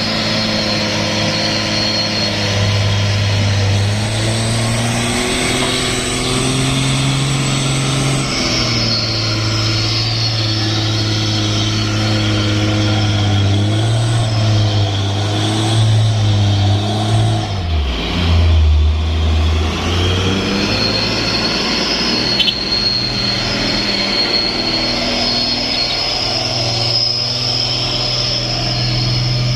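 Truck engine labouring under load, its speed rising and falling in steps. About eighteen seconds in it drops sharply for a couple of seconds, then picks back up.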